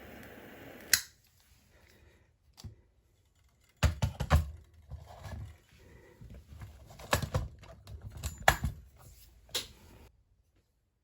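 Fire burning in a LOGOS place-and-light fireplace, crackling with scattered sharp pops and snaps in irregular clusters. A steady hiss cuts off about a second in.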